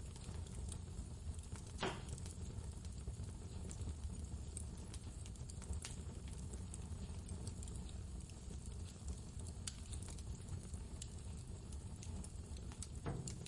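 Wood fire crackling in a fireplace, with scattered sharp pops, the louder ones about two seconds in and near the end, over a steady low rumble of blizzard wind.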